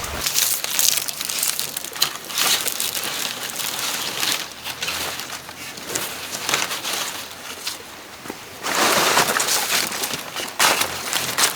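Rustling and crackling of dry material being handled, with scattered sharp clicks; a louder burst of rustling comes about nine seconds in.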